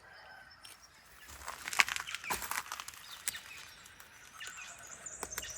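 A scatter of short rustles and clicks, bunched together from about one to three and a half seconds in, with a few lighter ticks after.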